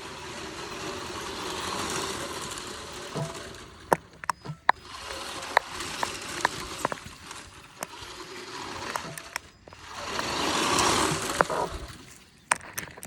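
Tamiya Scania R620 Highline RC semi-truck driving past twice, its running noise swelling up and fading away each time, with scattered sharp clicks in between.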